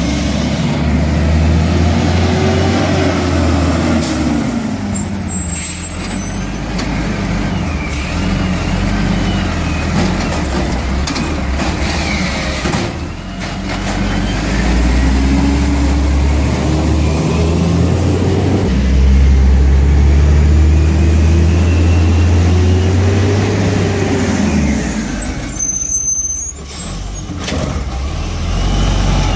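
Garbage truck's engine running under load and revving up and down repeatedly, with sharp air brake hisses about five seconds in and again near the end.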